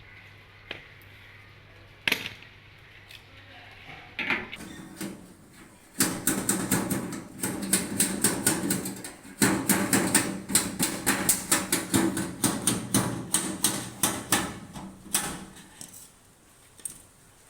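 A few single knocks, then about six seconds in a rapid, uneven run of clicks and knocks that lasts some nine seconds before dying away.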